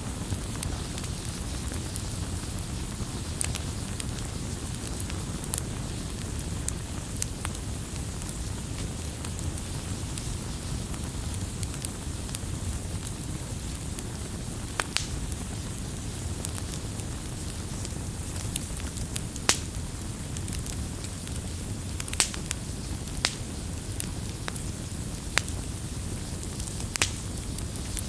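Wood fire burning steadily with a low rumble and hiss, broken by scattered crackles and sharp pops from the burning firewood.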